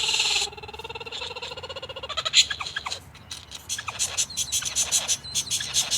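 Birds calling: a rapid rattling trill for the first two seconds or so, then sharp clicks and short chirps.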